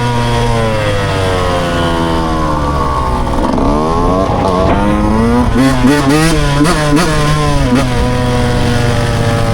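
Dirt bike engine running while riding. Its pitch eases down over the first few seconds, dips and climbs again about three and a half seconds in, then wavers with quick throttle changes before settling.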